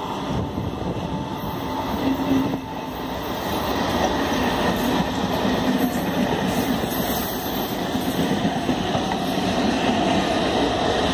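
Delhi suburban electric multiple-unit train running past close by: a steady, loud rumble of its wheels on the rails.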